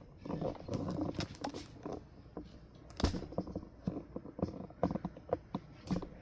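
Irregular small clicks and rattles of a ceiling fan's pull chain being handled as a chain extension is fitted, with a sharper click about three seconds in and another near the end.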